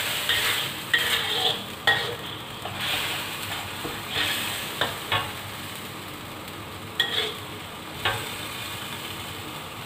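Blended chili-and-shallot spice paste sizzling as it fries in oil in a wok, stirred with a spatula that scrapes and knocks against the pan several times. The sizzle grows quieter over the seconds.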